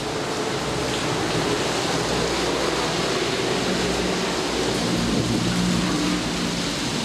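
Heavy rain falling steadily, with a low rumble that builds through the middle and then eases.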